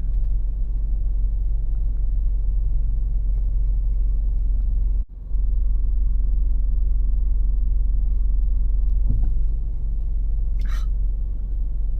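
Steady low rumble of an idling vehicle engine, broken off briefly about five seconds in, with a short higher-pitched sound near the end.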